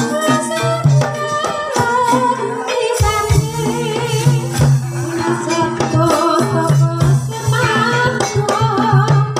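Javanese gamelan music accompanying an ebeg hobby-horse dance: a stepping metallophone melody over hand-drum strokes and a steady low tone, with a woman's singing voice.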